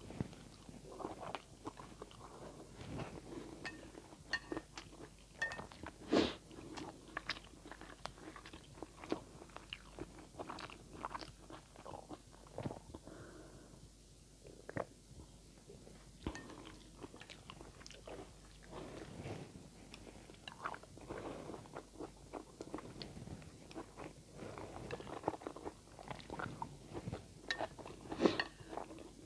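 Close-miked chewing and mouth sounds of a person eating instant noodles mixed with vegetables: a run of short, wet clicks and crunches. The chewing eases off briefly about halfway through.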